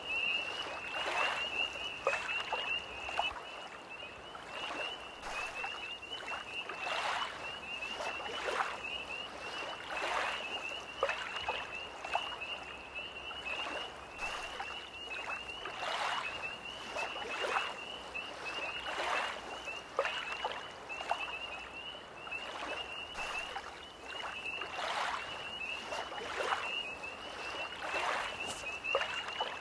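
Small lake waves lapping in soft splashes about once a second, under a steady, high, pulsing trill of a tree frog chorus.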